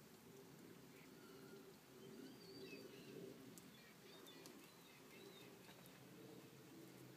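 Near silence: a faint steady low hum, with a few faint, short bird chirps between about one and five seconds in.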